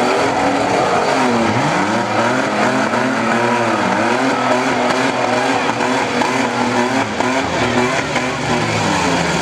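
Demolition-derby engines, a pickup truck's and a minivan's, revving up and dropping back over and over, with a steady noisy wash under them.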